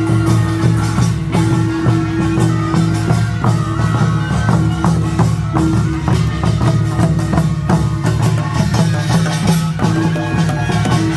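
Korean nongak farmers' band playing: rapid metallic gong and drum strikes in a driving rhythm over a steady, sustained low ringing tone.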